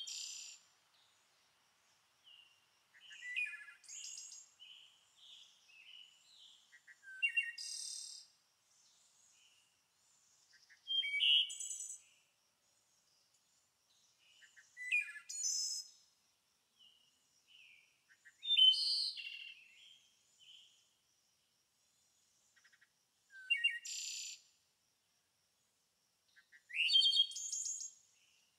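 A songbird singing: short phrases of rising whistled notes and buzzy trills, repeated about every three to four seconds.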